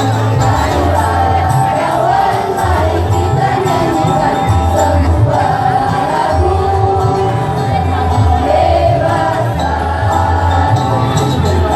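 School choir singing over music with a strong bass line that steps from note to note.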